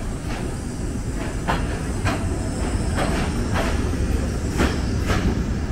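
Passenger train behind a BDZ class 44 electric locomotive moving along the platform: a heavy low rumble with sharp, repeated clacks of the wheels over the rail joints.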